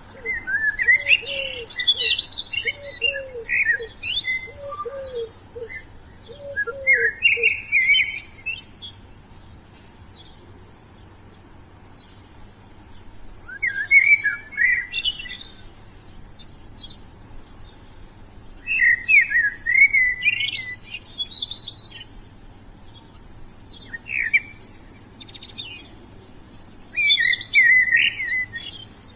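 Wild songbird singing in bursts of rapid, sweeping chirps and trills, with pauses of a few seconds between bouts. Through the first eight seconds a second bird gives a lower, short call about eight times.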